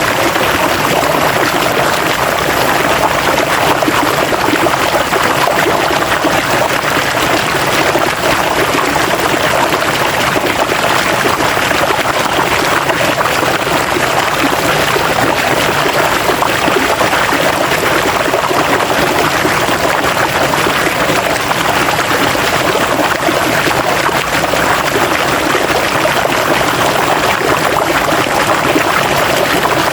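River water flowing steadily, a constant rushing and trickling without breaks.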